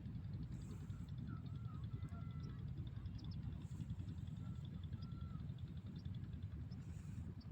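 A few short bird calls over a steady low rumble.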